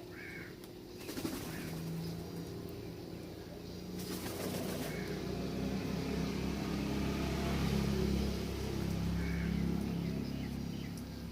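A motor vehicle passing: a low engine hum swells to its loudest about two-thirds of the way through, then eases off. Two short rushes of noise come about a second in and near the middle, and a bird chirps briefly at the start and again near the end.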